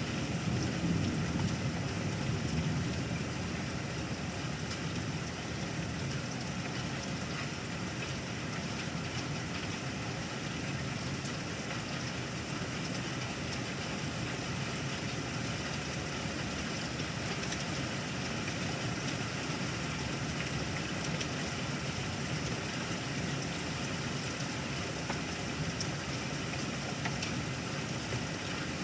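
Steady rain falling in a thunderstorm, an even hiss that holds throughout, with a low rumble swelling in the first few seconds.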